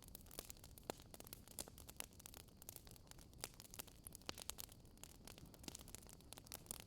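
Wood fire burning in a fireplace, crackling quietly: irregular sharp pops and snaps, a few stronger ones standing out, over a faint low hiss.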